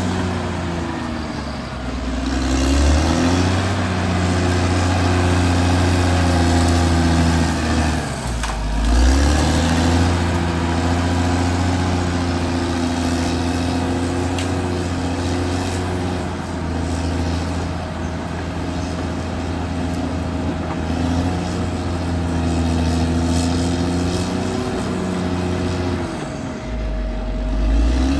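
Caterpillar D6R XL bulldozer's diesel engine running hard, its pitch sagging and recovering three times: about a second in, around eight seconds in, and near the end.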